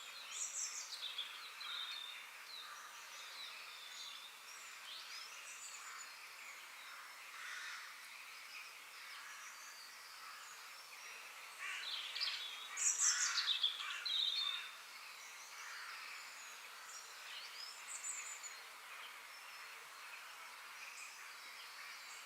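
Forest ambience with several birds chirping and calling over a steady faint background hiss; a louder flurry of calls comes about twelve seconds in and lasts a couple of seconds.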